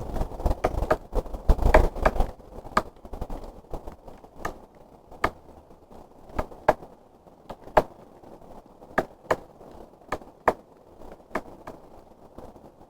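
Woodpecker pecking at wood: sharp, irregular single knocks, coming thick and fast for the first two seconds, then spaced out to one every second or so.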